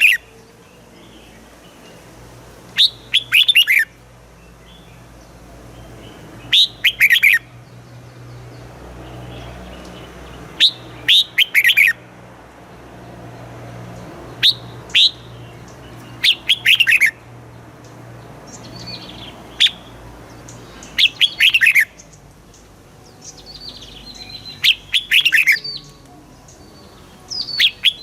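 Red-whiskered bulbul singing: short bright phrases of a few quick notes sliding downward, repeated every three to four seconds.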